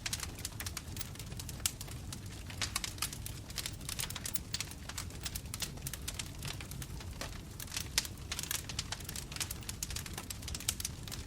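Bonfire crackling: a dense, irregular run of small sharp pops and snaps from burning wood over a steady low rumble of the flames.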